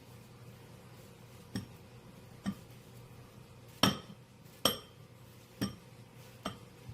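Glass or ceramic dishes clinking: about six light knocks roughly a second apart. The two loudest, near the middle, ring briefly.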